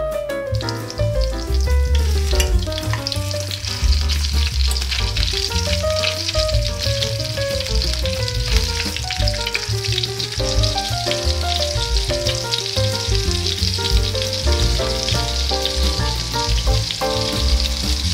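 Duck breasts frying in foaming butter in a cast-iron pot: a steady sizzle full of fine crackles and spitting fat, under background music with a melody and bass line.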